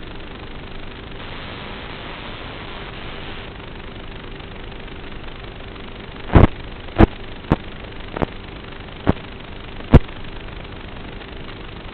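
A steady hum under a noisy background, then six sharp knocks about six seconds in, irregularly spaced over roughly three and a half seconds; the first and last are the loudest.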